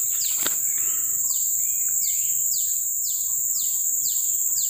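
A bird repeats a short falling whistle about twice a second over a steady, high-pitched insect drone. A single click comes about half a second in.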